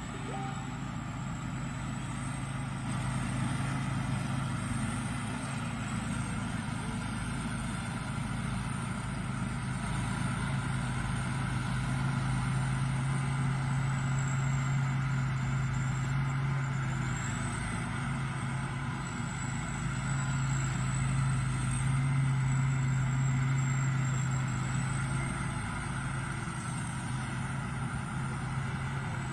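Thai Seng Yont rice combine harvester running steadily, its engine drone joined by a thin high whine that wavers slowly up and down in pitch.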